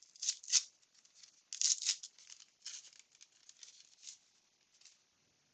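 A 1989 Upper Deck baseball card pack's foil wrapper being torn open and handled: a string of short crinkling tears, the biggest ones near the start and about a second and a half in, then lighter rustles.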